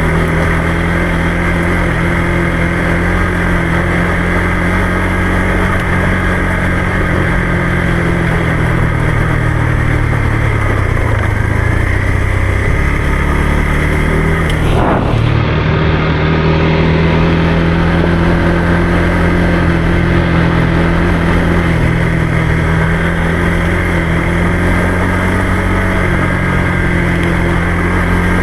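Motorcycle engine running steadily under way, with a sudden change about halfway through.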